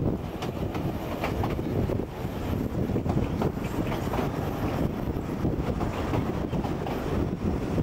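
Ffestiniog Railway narrow-gauge train running along the track: a steady rumble with frequent irregular clicks and clatter from the wheels and carriages.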